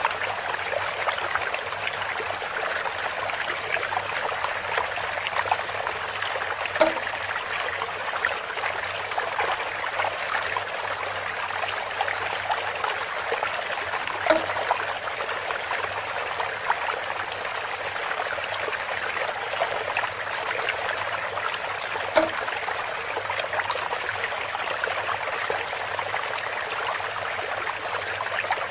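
Water trickling steadily from a bamboo spout, with a short knock about every seven to eight seconds, three times in all.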